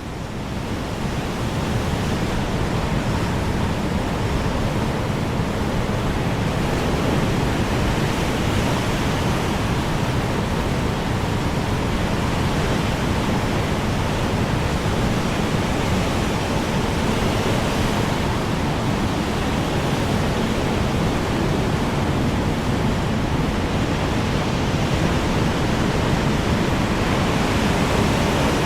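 Strong wind blowing as a steady, dense rushing noise, swelling in over the first second or two and then holding even.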